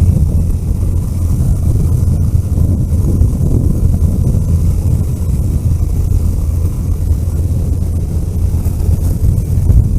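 Road vehicle under way: a steady low rumble of engine and road noise that holds level throughout.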